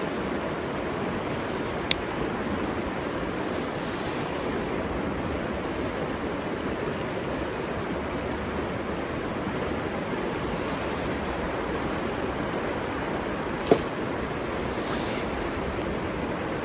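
River water running steadily, with two single sharp clicks, one about two seconds in and one near the end.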